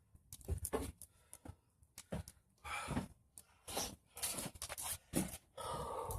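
Bonfire of pruned tree branches crackling, with irregular sharp snaps among longer hissing rushes.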